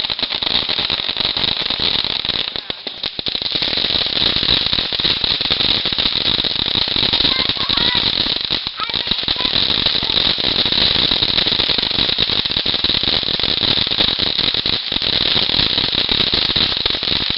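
Consumer fireworks giving a dense, continuous crackle, with a few faint whistles about halfway through.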